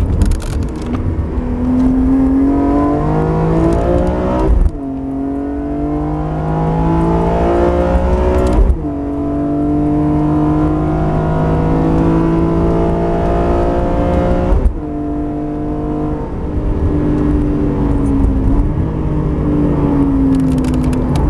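BMW E46 M3 CSL's straight-six engine, heard from inside the cabin, accelerating hard through the gears: the engine note climbs steadily and drops sharply at three upshifts, about five, nine and fifteen seconds in, then holds roughly steady revs near the end.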